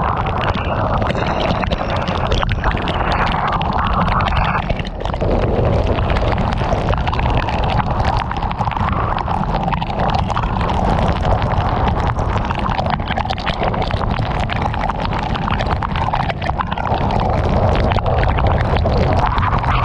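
Heavy rain pelting a moving car, a dense patter of drops over a steady low rumble of wind and road noise.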